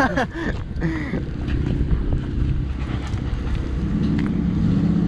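Car engine running at a steady idle, a low rumble, with wind on the microphone.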